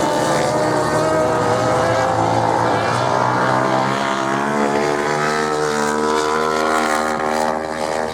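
Race motorcycle engines running hard on a sand track, several engine notes overlapping, rising and falling in pitch, with a pitch drop near the end as a bike passes.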